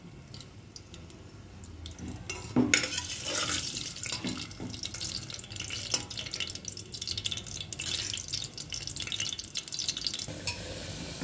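Potato pieces frying in hot oil in a metal pot: a faint sizzle that grows into a dense crackling about three seconds in, with a metal ladle scraping and clinking against the pot as the pieces are turned.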